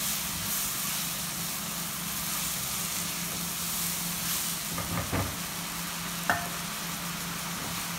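Ginger-garlic paste and whole spices sizzling in hot ghee and oil in a pan, stirred with a silicone spatula: a steady frying hiss, with a few light scrapes about five seconds in and a sharp click just after.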